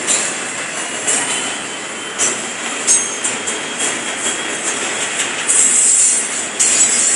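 Double-stack container freight train rolling past with steady rail noise and a thin, high, steady squeal from its steel wheels. Cars and a pickup pass on the road in front, adding swells of tyre noise.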